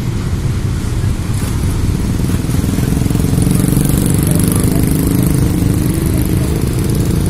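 Freight train running past, a loud, steady low rumble.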